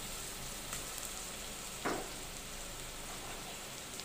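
Sliced onions and ginger-garlic paste sizzling in hot oil in a pot: a steady frying hiss, with a single brief knock about two seconds in.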